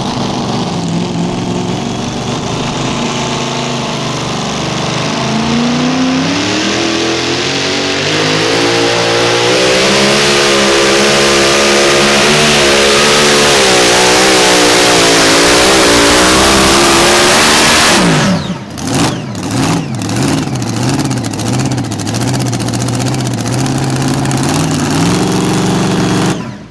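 Mini Rod pulling tractor's engine at full power under load dragging the weight sled, revs climbing after a few seconds and wavering as it pulls. About two-thirds through, the revs fall off sharply, then come back up and down several times as the throttle is blipped, before the sound cuts off abruptly at the very end.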